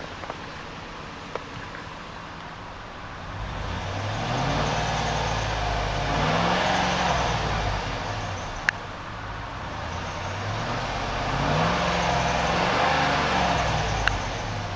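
2008 Hummer H2's 6.2-litre V8 idling, then revved twice, each rev rising slowly in pitch and falling back over a few seconds, the first about halfway through and the second near the end. A few small sharp clicks are also heard.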